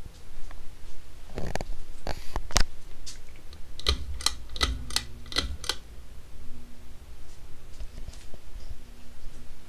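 A series of sharp clicks or knocks, about nine of them close together over roughly four seconds, followed by a faint low hum.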